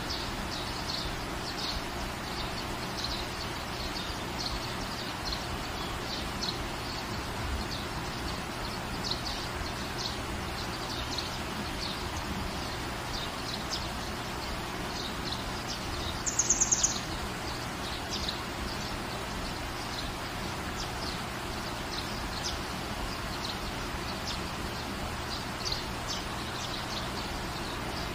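Steady rain falling, with small birds chirping throughout. About two-thirds of the way in, a brief fast run of high notes is the loudest sound.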